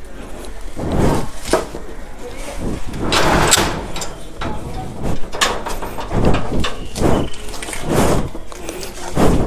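A series of irregular knocks and thumps, roughly one a second, like things being handled and bumped about.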